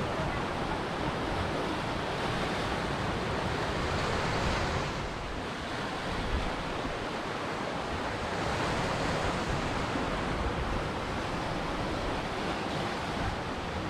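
Ocean surf: a continuous wash of breaking waves that swells and eases, with a slight lull about five seconds in.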